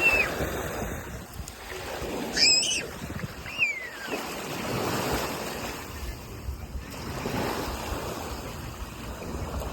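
Ocean surf washing onto the shore in repeated swells, with wind buffeting the microphone. Two brief high cries cut through about two and a half and three and a half seconds in.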